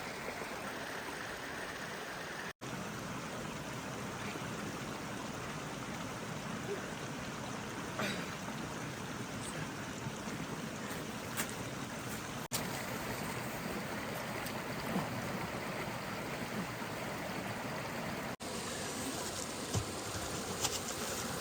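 Forest stream running: a steady rush of flowing water, cut off for an instant three times.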